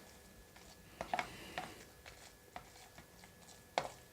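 Faint, scattered clicks and rustles of a hot freeze-dried ration meal pouch being handled and opened.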